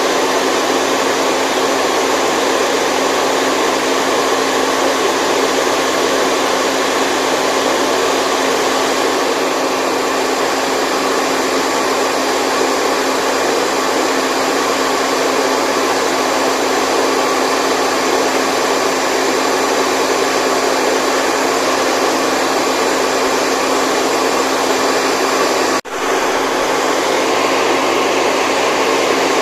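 Steady, loud white noise, an even hiss-like rush, broken by a split-second dropout near the end.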